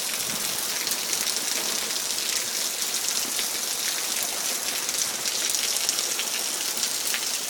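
Heavy hurricane rain falling steadily: a dense, even hiss full of small drop ticks.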